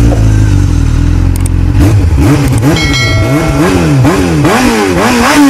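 Motorcycle engine running low and steady, then revved in quick repeated blips from about two seconds in, its pitch rising and falling about twice a second.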